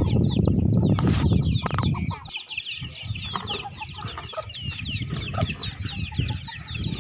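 A flock of chickens clucking and chirping, many short calls overlapping throughout. A loud low rumble fills the first two seconds, with a couple of sharp knocks about a second in.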